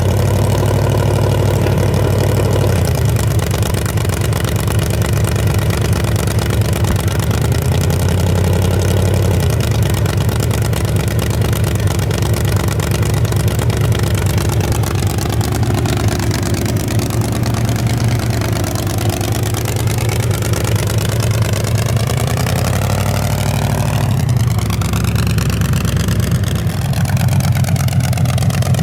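Drag-race truck's engine running loud and steady with a deep, lumpy note, its tone shifting briefly near the end.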